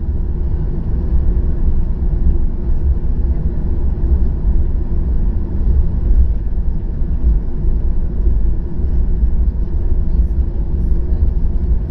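Boeing 737-800 jet with its CFM56-7B engines running, a steady low rumble that neither rises nor falls.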